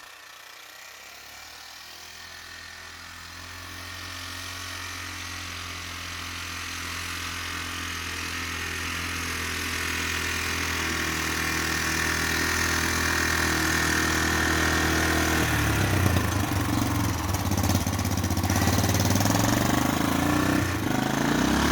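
Vehicle engine running steadily and growing gradually louder as it comes closer, turning rougher and louder for the last several seconds.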